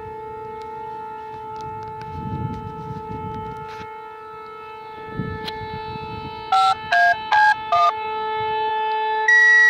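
Dispatch radio audio: a steady droning tone throughout, then four short two-note touch-tone beeps about six and a half seconds in. Near the end a loud steady tone starts, the first tone of a two-tone sequential paging alert that sets off fire and EMS pagers ahead of a dispatch.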